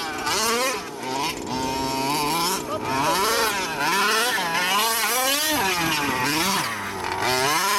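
Losi 5T 1/5-scale RC truck's small petrol two-stroke engine revving up and down over and over, its pitch swooping high and low about once a second.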